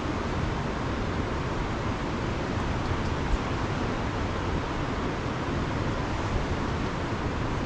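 Steady, even rushing noise of storm and floodwater, unbroken throughout.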